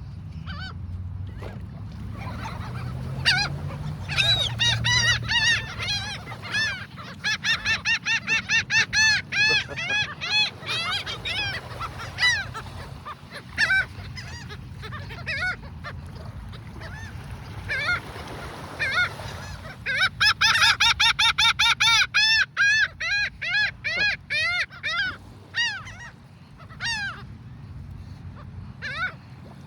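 A flock of birds calling in rapid honking series, several calls a second, loudest in two long runs about a quarter of the way in and again just past the middle. A low rumble sits under the first few seconds.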